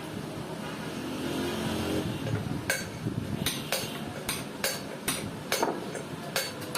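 Hammer knocking on metal: about nine sharp, irregular strikes starting about three seconds in, over a background of street traffic with a vehicle's engine hum in the first two seconds.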